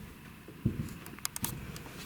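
Slow footsteps on an old house floor: two dull thuds about a second apart, with a few sharp clicks between them.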